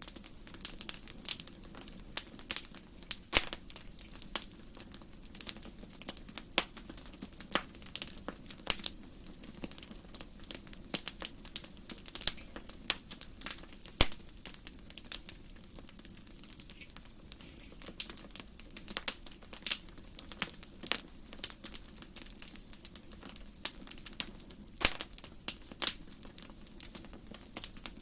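Wood fire burning in a fireplace, crackling with irregular snaps and pops over a low steady rumble; a few pops stand out sharply louder than the rest.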